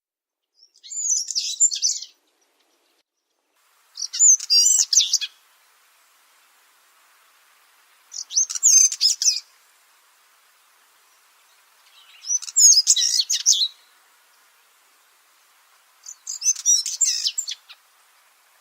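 Song of a chat of the genus Saxicola (a stonechat or bushchat): five short, quick, jumbled warbled phrases, each about a second long and repeated about every four seconds.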